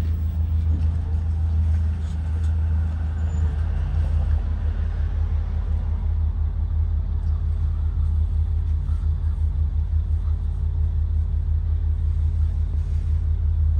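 Blue Bird Vision propane school bus running, a steady low engine and road rumble with no change in pitch.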